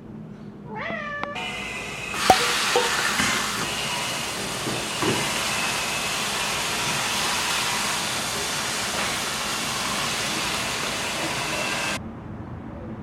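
A cat meows briefly, then a sharp knock and a steady hiss with a few faint steady tones in it, which cuts off suddenly near the end.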